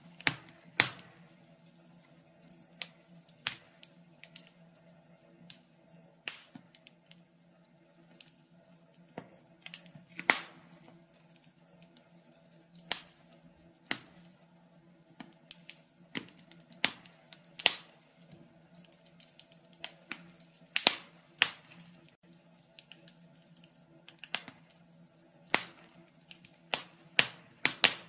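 Burning logs in a fireplace crackling and popping: sharp, irregular snaps, a few every couple of seconds and some much louder than others, over a faint steady hum.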